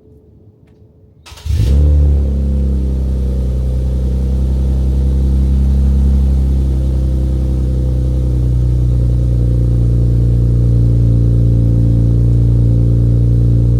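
A car engine starting about a second and a half in, briefly flaring, then settling into a steady idle.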